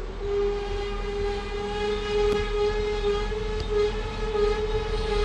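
SA135 diesel railbus pulling into a platform, with a long, steady, pitched tone with many overtones that wavers slightly and rises a little near the end, over the noise of the train.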